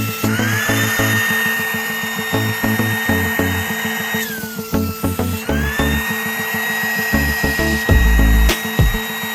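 A small electric motor running with a steady high whine, spinning up, winding down about four seconds in, then spinning up again and running on. Background music with a steady beat plays underneath.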